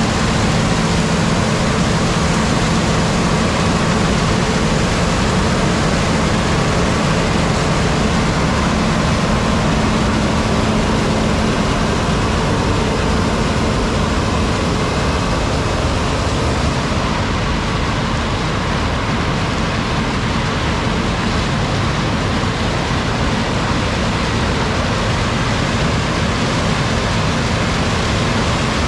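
Large farm machinery running steadily during corn harvest: a loud, even mechanical rush with a low engine hum underneath.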